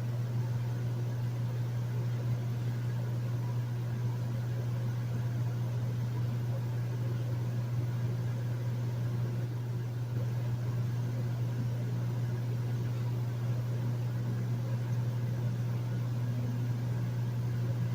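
Hotel room air conditioner running steadily: a constant low hum under a soft, even rush of air.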